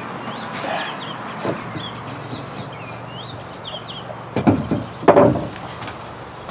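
Small birds chirping repeatedly over a steady outdoor background, with two loud clusters of knocks about four and five seconds in.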